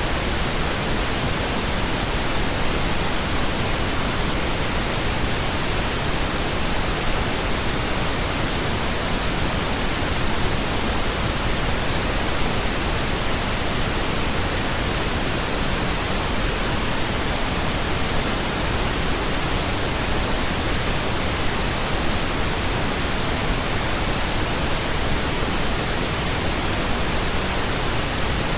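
Pink noise: a steady, even hiss spread across the whole range, unchanging throughout.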